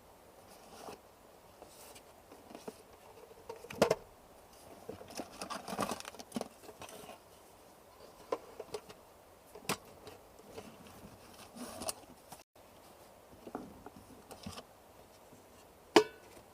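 Scattered small clicks, knocks and rustles of objects being handled, with a sharper knock about four seconds in and another near the end.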